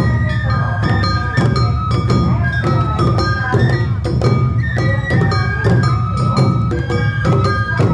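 Awa Odori festival music: bamboo flutes playing a held, stepping melody over steady drum beats and percussion.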